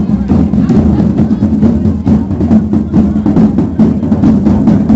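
Marching drums playing a steady, fast beat, with bass drum and snare strokes coming several times a second.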